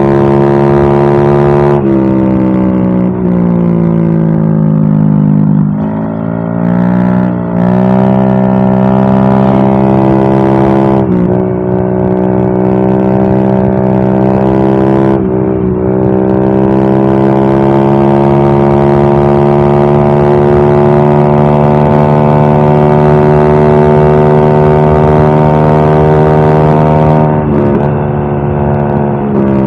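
Yamaha Mio M3 scooter's single-cylinder engine running through a WRX aftermarket exhaust, held at raised revs with a steady drone. A few seconds in the pitch sinks and climbs back. After that it holds steady, with short dips about eleven and fifteen seconds in and again near the end.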